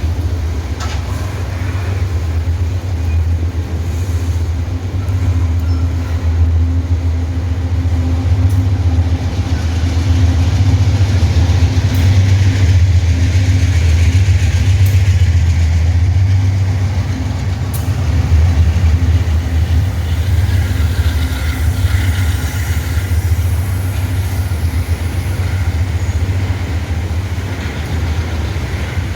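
Freight train hauled by Wabtec AC44i diesel-electric locomotives running by, with a steady deep engine drone that swells to its loudest about a third of the way in and eases off toward the end.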